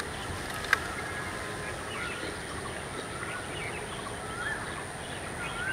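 Outdoor background hum with birds chirping now and then, and one sharp click just under a second in.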